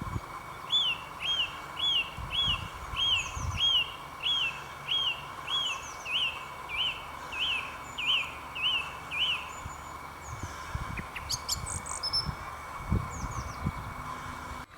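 A songbird singing a long run of about fifteen identical, evenly spaced whistled notes, about two a second, stopping after about nine seconds; a few higher, shorter bird calls follow near the end.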